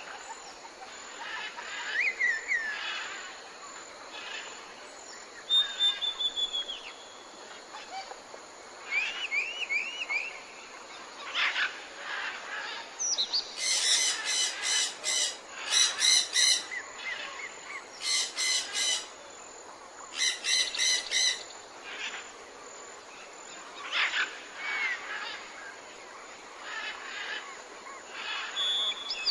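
Several wild birds calling: short whistled notes that slide in pitch, a quick run of repeated notes, and, midway through, bouts of harsh, buzzy calls repeated in quick succession.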